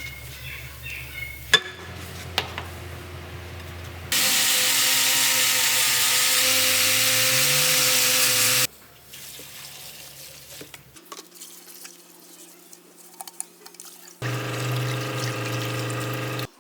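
Workshop tool noise in separate stretches. A loud, steady hiss runs for about four and a half seconds in the middle. A power tool runs for about two seconds near the end. Between them are quieter stretches with scattered clicks and knocks.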